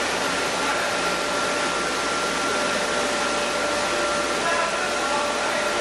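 Chili powder milling machinery running steadily: a constant loud rushing whir with a steady whine held through it.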